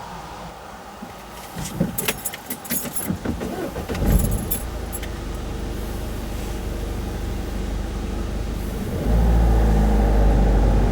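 Road vehicles crossing a railway level crossing: a burst of rattling clatter in the first few seconds, then a car engine running, louder from about nine seconds in.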